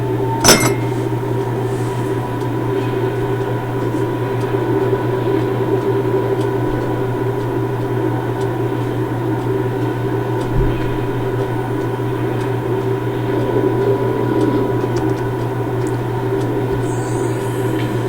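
Steady low mechanical hum of railway vehicles standing with their machinery running, with a single sharp metallic clank about half a second in and a faint knock around ten seconds in.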